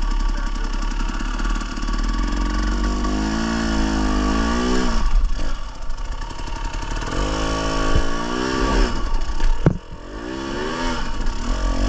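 Dirt bike engine revving in repeated rising and falling bursts of throttle, with a sharp knock and a brief drop in level near the end.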